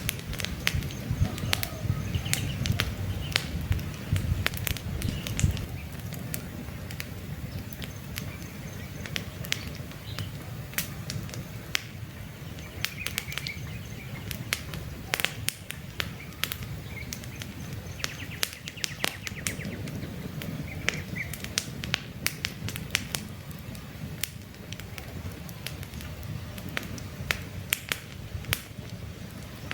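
Campfire crackling: many sharp pops and snaps from burning wood over a low rush of flames, the rush heavier in the first few seconds. Faint short bird chirps sound now and then behind the fire.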